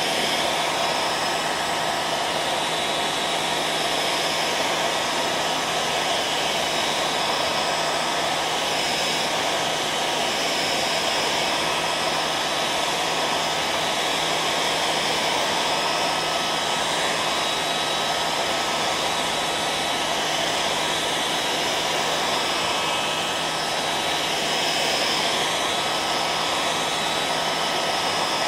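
Hairdryer running steadily: a constant rush of blown air with a faint motor whine, as continuous white noise for lulling a baby to sleep.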